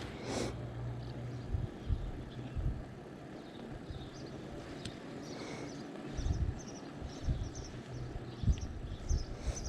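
Wind rushing over the microphone on a moving bicycle, with irregular low thumps as it rides over the road.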